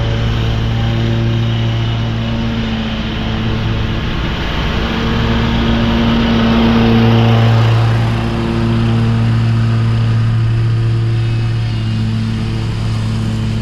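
Commercial ride-on lawn mower running steadily at full throttle, its engine and spinning blades mulching leaves; the engine swells a little about halfway through.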